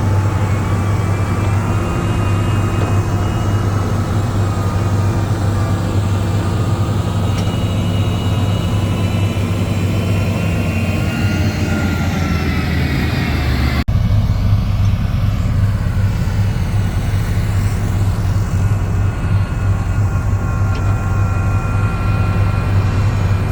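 Heavy diesel engine of earthmoving machinery running steadily, a deep drone with faint whining tones above it. The sound breaks off abruptly about fourteen seconds in and picks up again at once.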